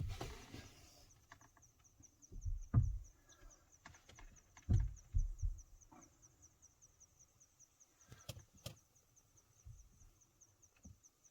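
An insect chirps faintly in a fast, even, high-pitched pulse, broken by a few dull low thumps and two sharp clicks.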